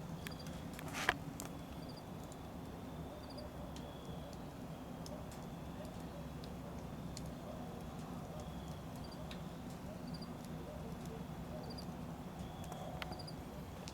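Wood fire burning in a rocket stove: a steady low rumble with scattered small crackles and one sharper snap about a second in.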